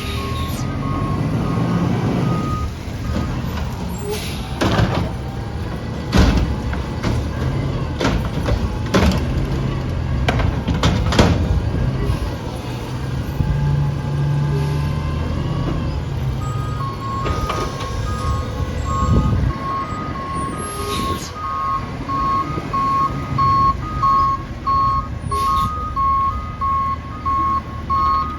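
Garbage truck engine running, with several sharp clanks in the first half and its backup alarm beeping steadily at the very start and again from a little past halfway to the end.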